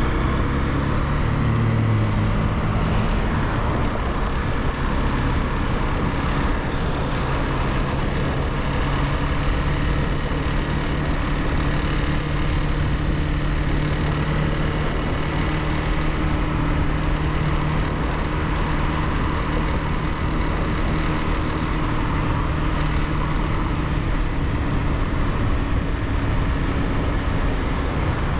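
Honda CBR300R's single-cylinder engine running while riding, over a steady rush of noise. Its pitch shifts in the first couple of seconds, then holds level at a steady engine speed.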